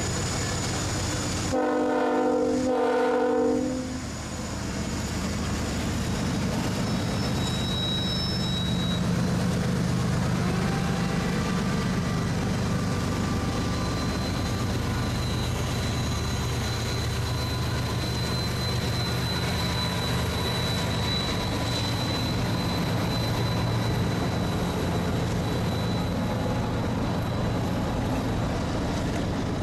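A diesel locomotive's chord horn sounds about a second and a half in, two blasts with the second shorter. It is followed by the steady low rumble of the CSX diesel locomotives' engines and wheels as the multi-unit consist passes.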